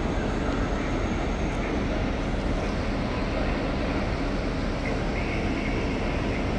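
Steady hum and rumble of a standing double-deck regional train under a large station hall roof, with the station's general background noise.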